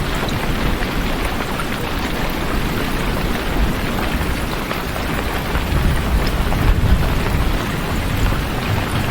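Steady rain falling, a dense even hiss of drops. A low rumble of thunder swells about six to seven seconds in.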